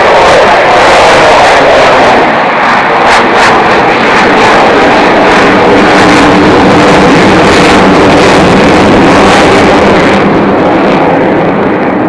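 Avro Vulcan XH558's four Olympus turbojets, very loud in a close pass, with a crackling edge. The pitch falls in the first second or so, and the sound begins to ease near the end.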